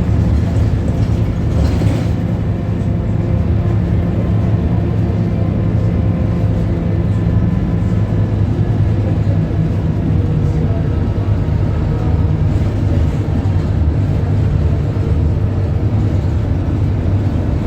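Scania K280UB bus's Scania DC9 five-cylinder diesel engine running with a steady, loud low drone.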